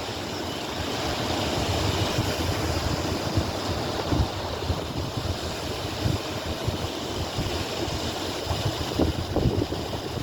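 Gusty wind buffeting the microphone in a steady, rumbling rush, with some water noise mixed in.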